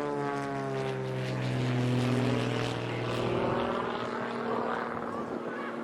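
Propeller-driven light aircraft flying over, a steady engine drone that has just dropped in pitch as it passed and fades away about three and a half seconds in.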